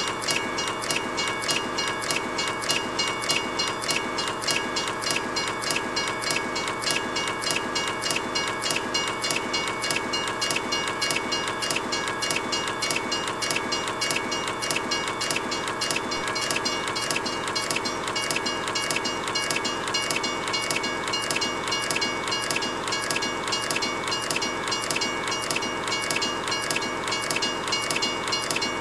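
Train running on rails: a steady, fast, even rhythmic clatter of wheels with a few steady high tones over it.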